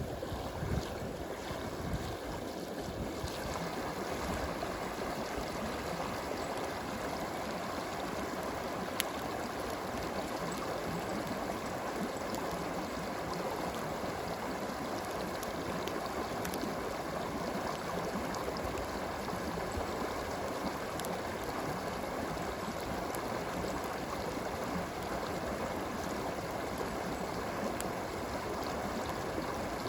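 Steady flowing stream water, with a few isolated sharp campfire pops.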